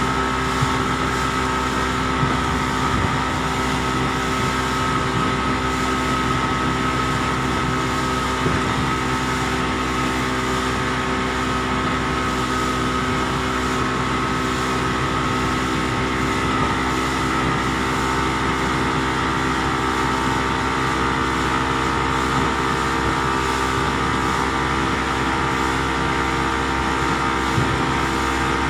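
Boat engine running steadily at a constant speed, a continuous drone with several steady tones and no change in pitch.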